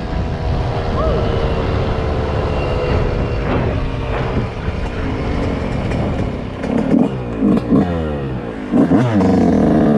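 Dirt bike engine running steadily, then revved in several quick rising-and-falling bursts over the last few seconds.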